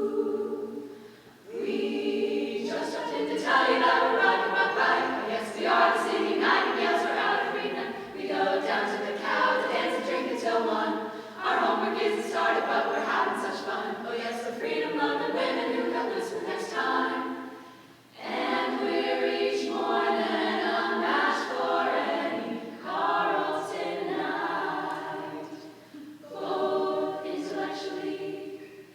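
College a cappella group singing in close vocal harmony with no instruments. Phrases are broken by short breaths about a second and a half in, near the middle, and a few seconds before the end.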